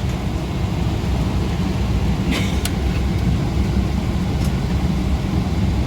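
Steady low rumble of an airliner cabin on the ground, with a few faint clicks.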